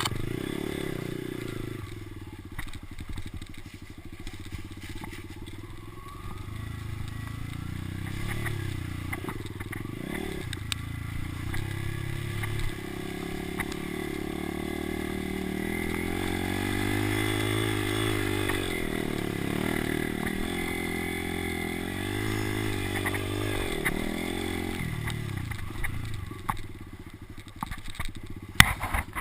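Kawasaki motocross bike engine running under changing throttle, its pitch rising and falling repeatedly as it revs up and backs off. A few sharp knocks come near the end.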